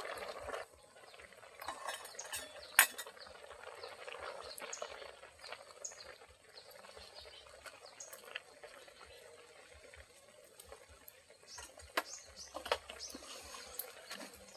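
Scattered clinks and knocks of dishes and utensils being handled, the sharpest about three seconds in and two more near the end.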